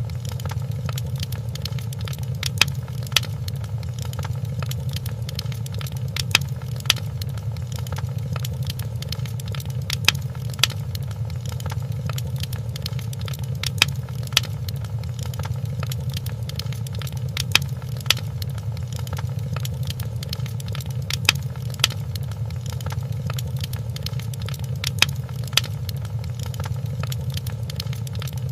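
Wood fire crackling in a fireplace: a steady low rumble with constant fine crackles and louder pops that come in pairs every few seconds.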